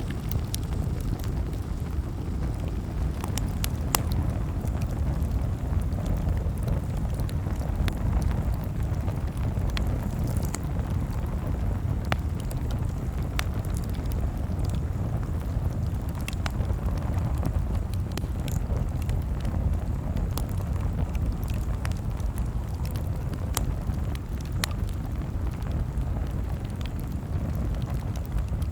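Campfire crackling: sharp pops and snaps every second or two over a steady low rumble.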